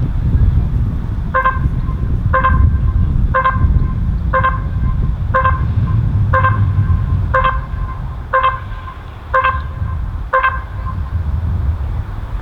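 Electronic race timing system beeping about once a second, ten short identical beeps in all, over a steady low rumble.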